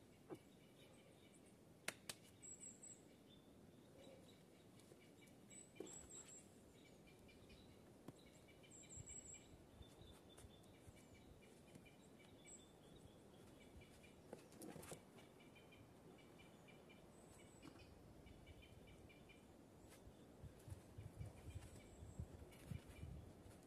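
Faint birdsong in a forest: short, rapid high trills repeated every second or two, with a few thin high chirps between them. A few sharp clicks or knocks stand out, loudest about 2 s and 15 s in, and a low rumble builds near the end.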